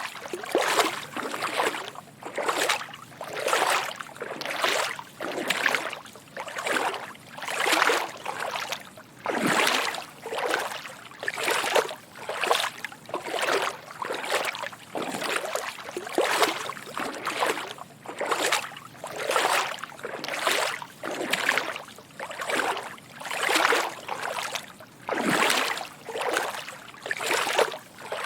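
Footsteps wading through shallow water: a soft slosh and splash with each step, in a steady walking rhythm of a little more than one step a second.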